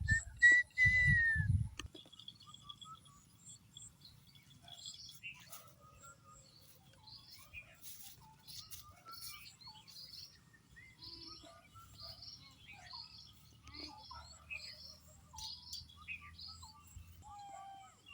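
Birds chirping and calling in short, scattered notes. In the first two seconds a louder close sound, a whistle-like tone falling in pitch over low thuds, stands out.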